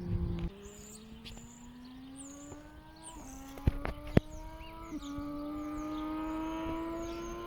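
Triumph Street Triple 765 three-cylinder engine through an SC-Project SC1-R exhaust with the dB killer removed: the loud note drops off sharply about half a second in, then the engine is heard quieter, its pitch climbing steadily as it accelerates through the gears, with shifts a little after three and five seconds. Two sharp cracks ring out near the middle, and birds chirp throughout.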